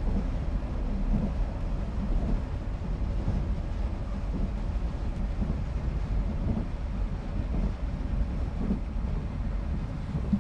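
24-series sleeper coach running on rails, heard from inside a compartment: a steady low rumble with small uneven swells.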